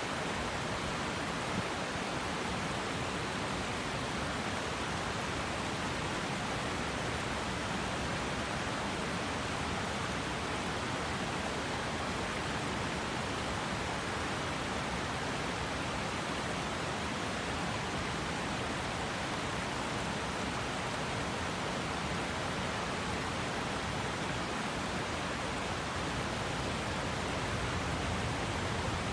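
Mountain river rushing over rocks: a steady, even rush of running water with no pauses.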